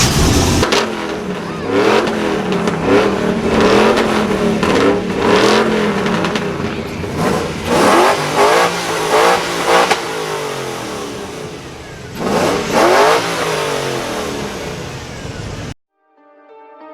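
Performance truck engine revving again and again over a steady rumble, its pitch climbing and falling with each rev. The sound cuts off suddenly near the end.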